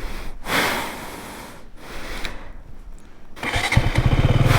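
Rustling and handling noises, then about three and a half seconds in a KTM motorcycle engine starts and settles into a steady idle.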